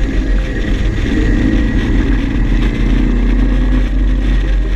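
Engine of a Westfield open-cockpit sports car running steadily while it cruises along the road, heard from the driver's seat.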